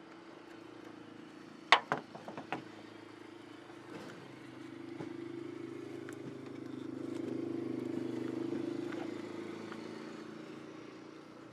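A few sharp metallic taps about two seconds in, from tools at the truck's battery terminal, then a motor vehicle going by, its engine noise swelling and fading.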